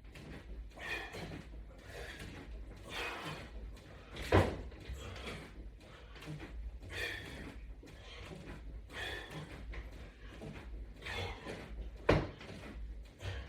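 A person working out with resistance bands, breathing in a soft rhythm about every two seconds through the repetitions. Two sharp knocks sound, one about four seconds in and one near the end.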